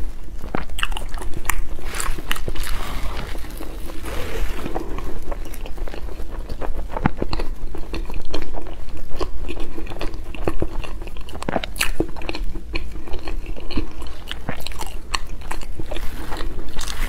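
Close-miked chewing and lip-smacking while eating a soft custard-filled crepe roll, with many small mouth clicks throughout.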